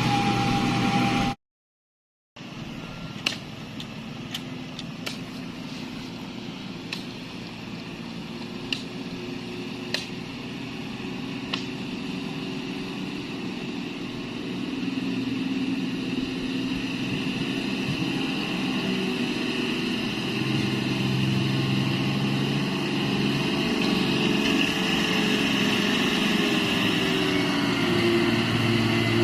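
Heavy truck's diesel engine running steadily, growing louder about two-thirds of the way in. A few sharp clicks sound during the first half, and the sound cuts out for about a second near the start.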